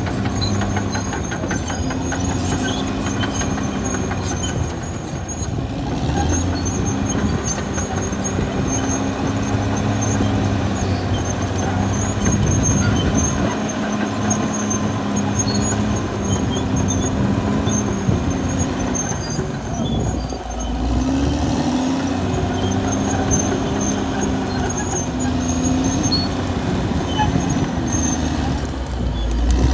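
Caterpillar D6R XL bulldozer's diesel engine running under working load, its pitch dipping and recovering about two-thirds through and again near the end, with clanking and rattling over the top.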